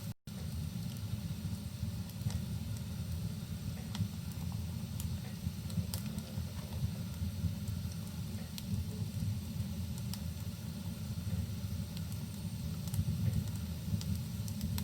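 Rain and fireplace ambience: a steady low rumble with scattered, sparse crackling pops from the fire. The sound cuts out for a split second just after the start.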